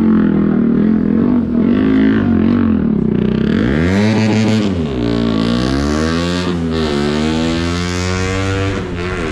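Motorcycle engine running and being revved, its pitch swinging down and up a couple of times and then climbing steadily.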